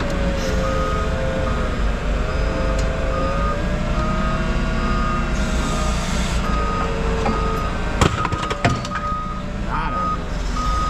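Heavy equipment's diesel engine running, its pitch rising and falling with the hydraulic load, while a reversing alarm beeps on and off. A few sharp metal bangs about eight seconds in.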